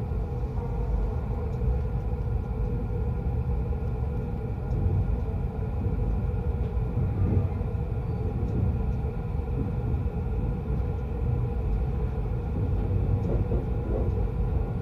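Running noise inside a Yokosuka Line commuter train: a steady low rumble of the wheels on the track, with a constant hum over it.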